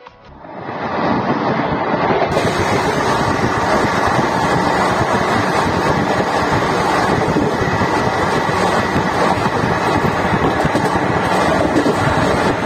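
Passenger train of ICF coaches running at speed: a loud, steady roar of wheels on the rails. It fades in over the first second, then holds evenly.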